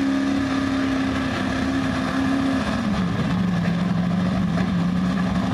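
Modified gas pulling truck's engine running hard at high revs under load, holding a steady pitch, then dropping to a lower steady pitch a little under three seconds in.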